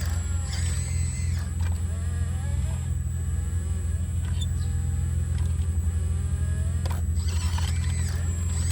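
Sumitomo SH120A3 excavator's diesel engine droning steadily under working load, with a couple of sharp knocks and two spells of wavering high squeaks, one near the start and one near the end, from the working machine.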